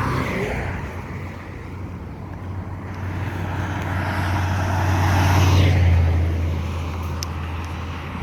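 Engine noise passing by: a low hum with a rushing sound over it that swells to its loudest about five to six seconds in, then fades.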